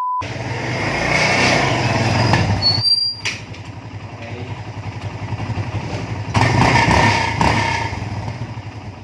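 An engine running, with a brief break about three seconds in and a louder stretch about six and a half seconds in.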